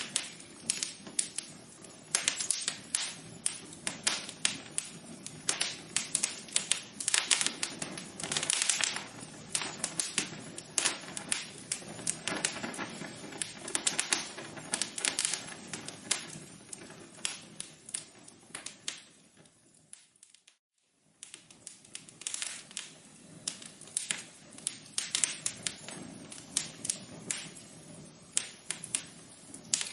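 Wood fire crackling in a fireplace, with dense, irregular pops and snaps over a faint hiss. It drops out for about a second about two-thirds of the way through, then resumes.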